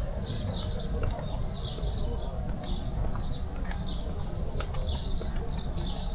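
Small birds chirping in quick, repeated bursts, over a steady low rumble.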